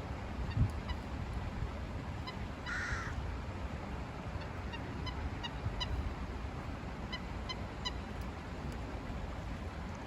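A bird giving a strange call: short, harsh pitched notes repeated irregularly, with one longer call about three seconds in. Wind rumbles on the microphone underneath.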